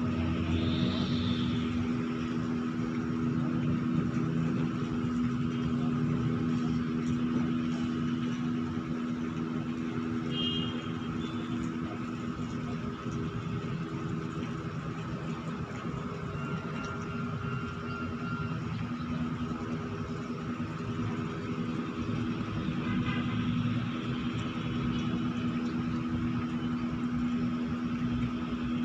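Winch machinery running steadily as it hauls a ship up the slipway rails on wire rope: a constant engine drone with a strong, even hum.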